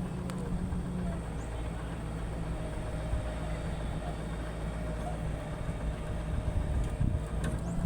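Steady low rumble with a faint continuous hum, like a running engine or traffic.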